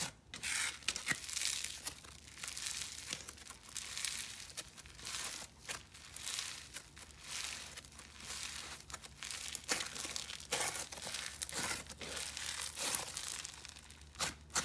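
Clear glue-based microfoam slime being squeezed and stretched by hand, a dense irregular crunching and crackling of foam beads popping.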